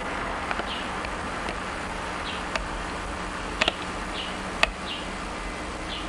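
A bird chirping through an open window, a short falling chirp repeated about once a second, over a steady background of road noise. Two sharp clicks come near the middle.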